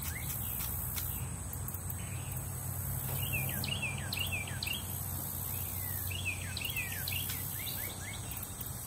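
Birds calling with quick, short falling chirps in runs of several, mostly in the middle, over a high insect buzz that swells and fades.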